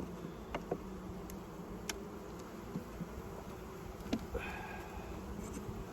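Honey bees buzzing steadily around an open hive during a frame inspection, with a few light clicks and knocks of frames being handled.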